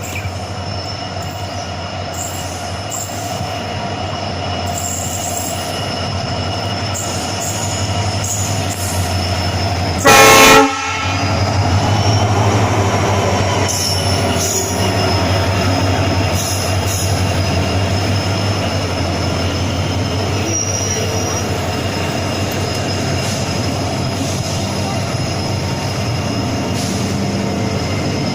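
Train hauled by a WDG4D diesel locomotive running, a steady rolling rumble with thin high squealing tones that slowly grows louder. About ten seconds in the locomotive's horn sounds once for a signal, a short, very loud blast.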